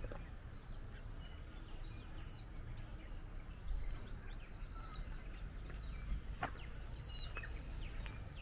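Outdoor ambience: small birds giving a few short, high chirps a couple of seconds apart over a low steady rumble, with a sharp click about two-thirds of the way through.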